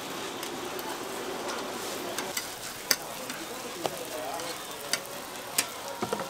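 Hotteok (Korean sweet pancakes) frying in oil on a griddle, a steady sizzle. Several sharp clicks come in the second half.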